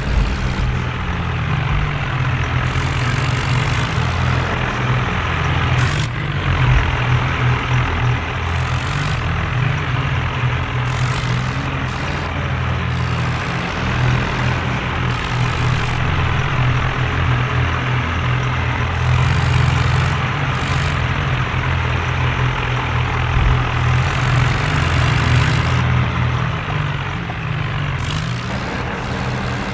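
Diesel tractor engine running, its pitch rising and falling a few times.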